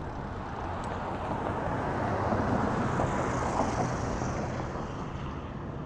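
Mini bike's small engine running as it is ridden, getting louder around the middle and easing off near the end, mixed with rushing wind noise.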